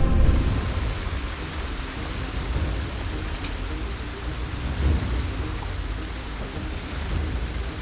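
Steady rushing of heavy rain and running water, with a low rumble underneath.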